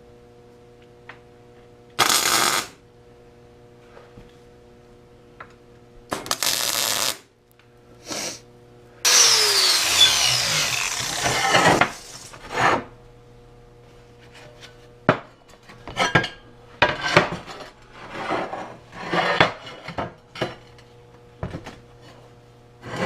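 A power tool worked in short bursts on steel plate, the longest run ending in a falling whine as it spins down, followed by a hand file rasping across the metal at about a stroke a second.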